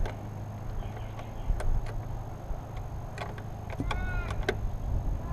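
Scattered light metallic clicks and clinks of hand work on car battery terminals, over a steady low hum. A short squeak about four seconds in.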